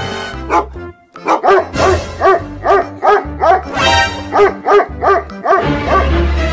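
A dog barking in a quick run of short barks, about two to three a second, over background music with a steady low bass.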